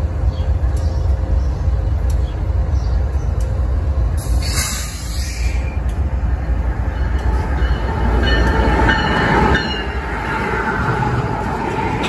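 Freight train led by diesel-electric locomotives approaching and passing close by, with a heavy low rumble of engines and wheels on the rails. It grows louder about eight seconds in, when a held higher tone, typical of wheel squeal or a horn, comes in as the lead units pass.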